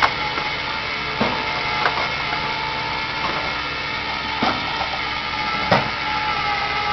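Tow truck's engine running steadily, with several sharp clanks and knocks scattered through it.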